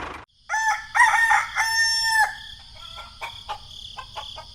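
A rooster crowing once, a drawn-out call of about two seconds, followed by a run of short clicks over a steady high-pitched drone.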